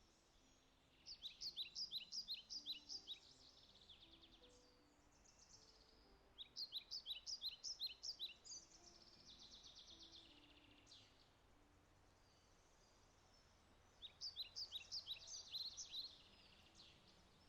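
A songbird sings three times, each song a quick series of about a dozen sharp, high, down-slurred notes followed by a softer, buzzy trill, over a faint steady hiss.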